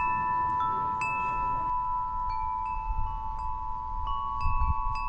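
Chime tones struck one after another at different pitches, each ringing on, over a steady high sustained tone.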